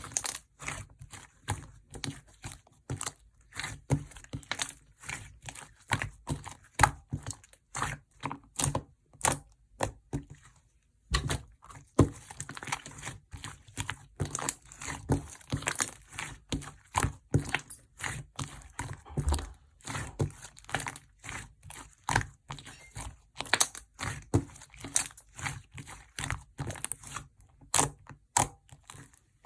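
Slime being squeezed and kneaded by hand, giving a dense run of irregular sticky clicks and crackles, with a short pause about ten seconds in.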